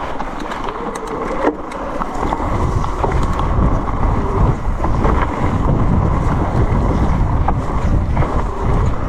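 Wind rushing over the microphone with a low rumble, growing louder about two seconds in as the mountain bike gathers speed down a wet trail.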